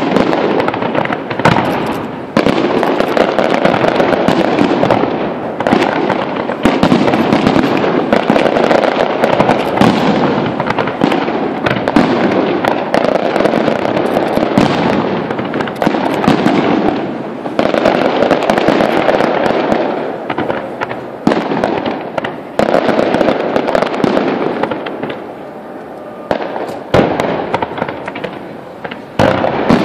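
Aerial fireworks display: a dense, continuous barrage of shell bursts and crackling with short lulls. The barrage thins out near the end, then a single loud bang comes just before the end.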